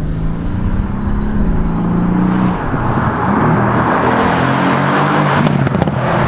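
Mercedes-AMG C63 Coupe's 4.0-litre twin-turbo V8 pulling under load, its pitch rising over the first two seconds and dropping about two and a half seconds in. Then it runs on as a rougher rush, with a short cluster of sharp exhaust pops near the end.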